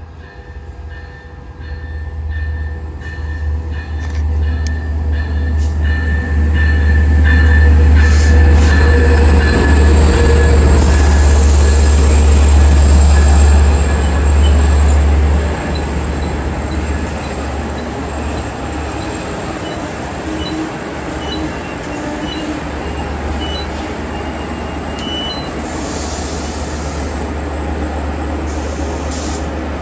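Long Island Rail Road diesel passenger train pulling into the station: a heavy rumble that builds for about eight seconds, with thin, high wheel and brake squeals. About halfway through the loudness drops and a steady rumble carries on.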